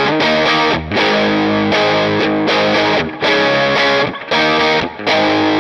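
Electric guitar played through the Flamma FS06 preamp pedal's overdriven amp model, strumming a phrase of distorted chords that ring out with short breaks between changes.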